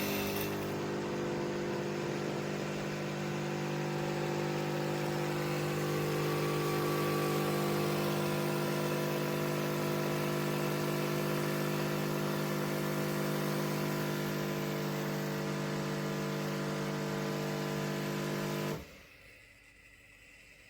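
Philips Baristina espresso machine running with a steady mechanical hum, which cuts off suddenly near the end.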